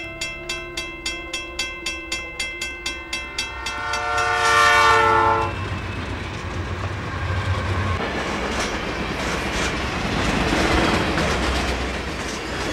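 Railroad crossing bell ringing about four times a second, then one long blast of a train horn, the loudest sound, followed by the train running past with its wheels clattering on the rails.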